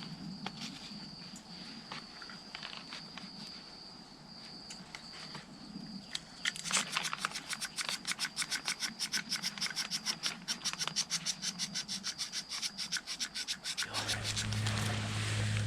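A steady high-pitched tone with scattered clicks, then rapid rhythmic scratching strokes, several a second, for about seven seconds. Near the end a low steady hum starts.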